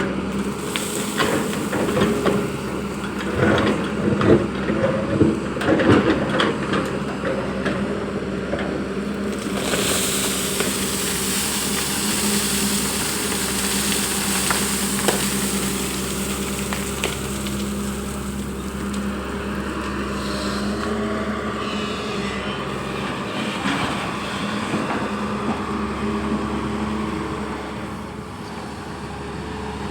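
Long-boom excavator's diesel engine running steadily under load, with irregular clanks and scraping from the bucket working soil in the first several seconds. About a third of the way in a hissing rush sets in over the engine.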